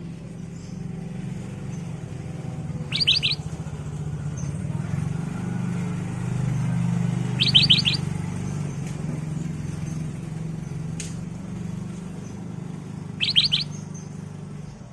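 Black-crested bulbul (kutilang emas) calling: three short bursts of about four quick, high, rapid notes each, several seconds apart, over a steady low hum.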